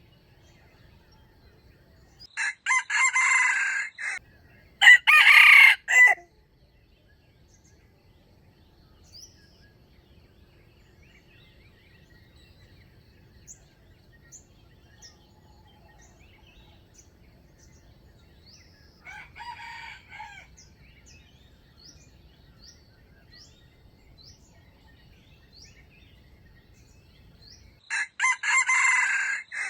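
Wild junglefowl roosters crowing: two loud crows a few seconds in, a fainter, more distant crow around the middle, and another loud crow near the end. Faint small-bird chirps come between them.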